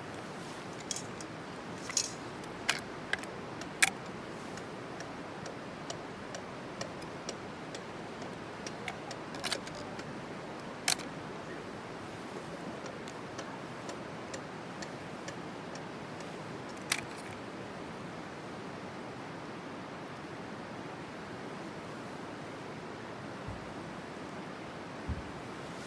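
Wood fire crackling: scattered sharp pops at irregular intervals over a steady hiss.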